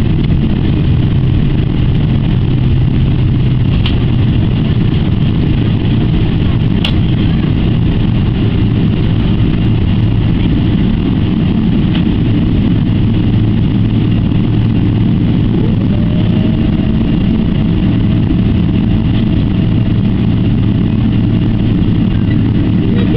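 Jet engines of a Boeing 777-300ER heard from inside the cabin: a loud, steady rumble and hum. About two-thirds of the way through, a whine rises and then holds steady.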